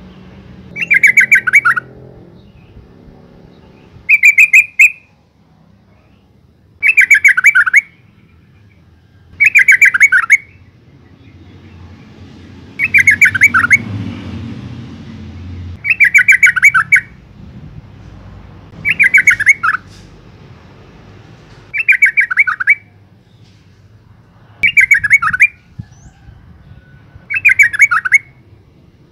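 Female yellow-vented bulbul calling: a short, fast chattering phrase of quick notes, repeated about ten times, one every two to three seconds.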